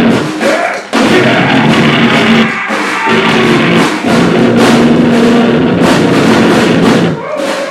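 Live noise-grind played at full volume: hammering drums under a dense wall of distorted noise, with a brief break about a second in, and cutting off near the end.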